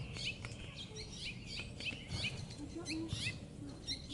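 Small songbirds chirping, a quick run of short high chirps and call notes repeating throughout.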